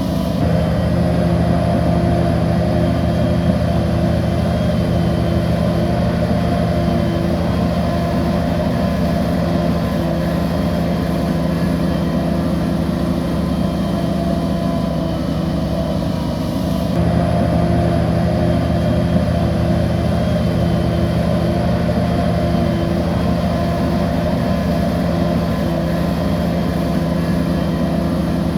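Heavy diesel bulldozer engine running steadily at a constant pitch. The sound shifts abruptly about 17 seconds in.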